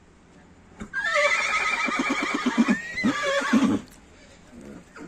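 Horse whinnying: one long, high, wavering neigh starting about a second in and lasting nearly three seconds, breaking into quick low pulses toward its end.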